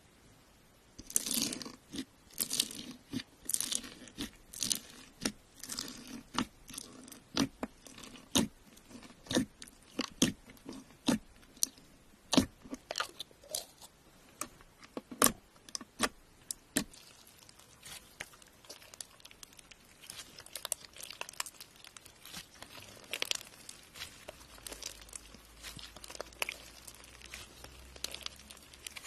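Slime being played with, making sharp crackling pops and crunches about one or two a second, then softer, denser crackling for the last ten seconds or so.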